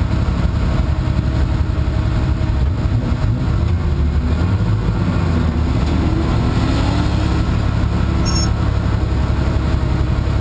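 Race car's engine idling steadily at the autocross start line, heard from inside its stripped, caged cabin.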